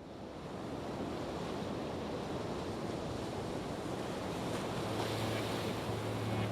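A steady rushing noise that swells slowly over the first second or two, joined by a low steady hum about five seconds in.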